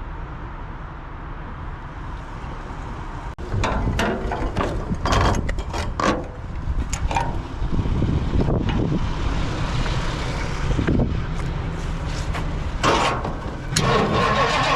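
A low rumble, then from about three seconds in a run of irregular knocks and clatter from work on an old car. Near the end a steady engine sound begins, the 1962 Ford Galaxie's engine starting.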